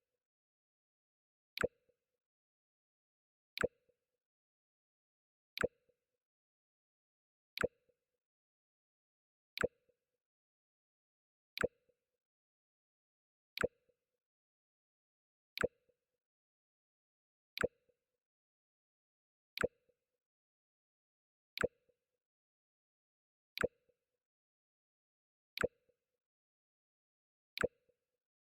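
The Mac OS X "Jump" sound effect played on a loop: a sharp click with a short low pop right after it, repeated exactly every two seconds.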